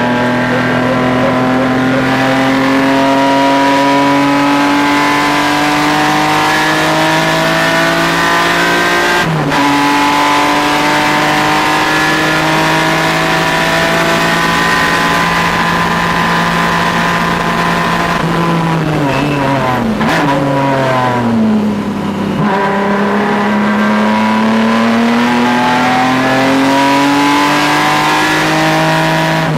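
Race car engine being driven hard around a track: it runs steadily under load, a gear change breaks it about nine seconds in, and a little past halfway the revs drop in several steps as the driver brakes and downshifts. The revs then climb steadily under acceleration and fall again near the end.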